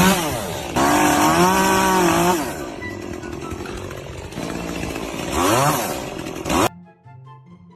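A small engine revving up and dropping back, twice, with a rough running noise between the revs. Near the end it cuts off abruptly to faint background music.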